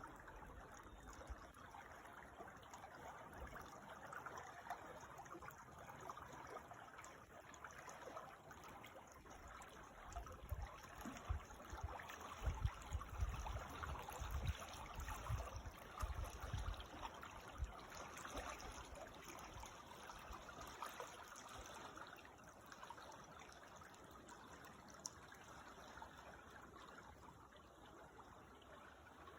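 Small creek trickling and babbling steadily over stones. Low rumbles come and go in the middle stretch.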